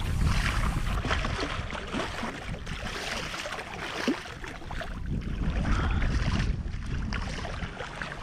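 Water splashing and sloshing around a sit-on-top kayak at sea, with wind buffeting the microphone in a steady low rumble.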